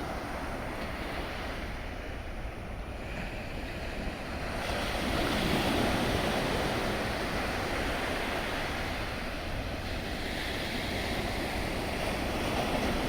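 Wind rushing over the microphone along with sea water and waves, a steady noise that grows louder about four and a half seconds in.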